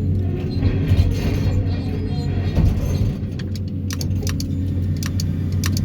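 Excavator engine and hydraulics running steadily with a low hum, and a quick series of sharp clicks and knocks from about three and a half seconds in.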